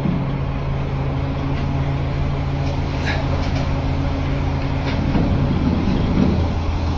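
XCMG mobile crane's diesel engine running steadily under load, a deep continuous hum whose upper tone drops away about five and a half seconds in.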